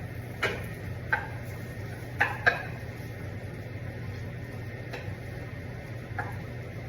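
Utensil stirring raw rice into hot oil, butter and onion in a pan, toasting it for a pilaf. A few irregular knocks and scrapes against the pan come over a steady low hum.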